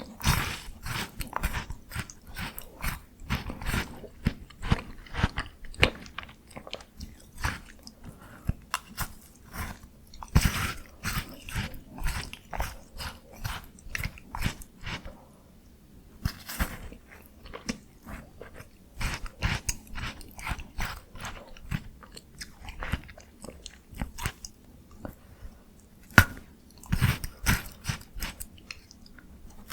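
Close-miked biting and crunchy chewing of a frozen Jaws Bar ice bar. There are sharp crunching bites near the start, about ten seconds in, around sixteen seconds and again near the end, with steady chewing crackles in between.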